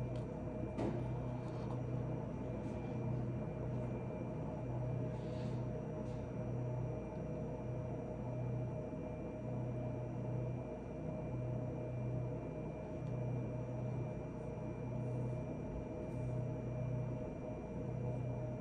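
A steady low hum, like a running appliance or fan, swelling and easing slightly every second or two, with a few faint clicks, the clearest about a second in.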